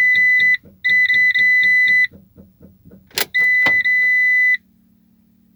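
Peugeot Boxer van's dashboard warning beeper sounding: short rapid beeps, then longer steady tones, over a soft ticking about four times a second. It sounds with the key turned while the engine does not crank or start. Two sharp clicks come a little past three seconds in; the beeping stops about four and a half seconds in, leaving a faint hum.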